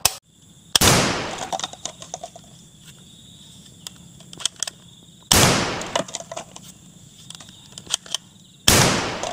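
Three loud gunshot-like bangs from a toy dart blaster being fired: about a second in, about five seconds in, and near the end, each trailing off over about a second. A few small clicks fall between the shots.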